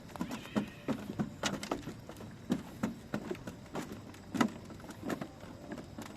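A string of irregular soft knocks and clicks, several a second, over a faint steady background hum.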